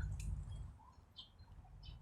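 Low rumble on a handheld phone's microphone, with a few short high bird chirps about a second in and again near the end.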